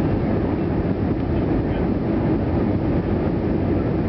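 Steady rumble of an Airbus A320 heard from inside the cabin: engine and airflow noise, even in level throughout.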